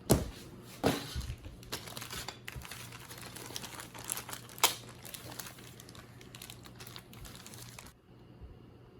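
Plastic crinkling and rustling as kit parts and packaging are handled, with a few sharp clicks and taps, the loudest near the start and about four and a half seconds in.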